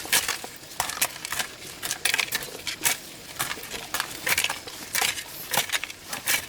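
Irregular sharp knocks and clinks of hard objects striking one another, about two or three a second.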